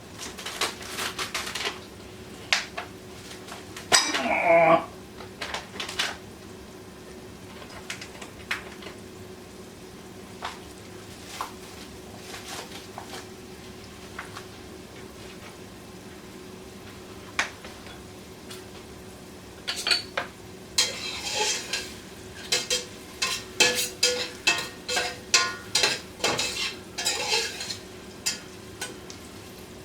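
Kitchen utensils clinking and knocking against dishes and pots: scattered single clicks, a ringing clatter about four seconds in, and a quick run of clinks over the last third, over a steady low hum.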